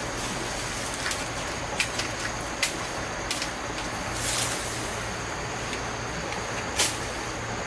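A handful of short, sharp knocks and clicks, about six scattered irregularly, with a brief swish about four seconds in, over a steady hiss and low hum.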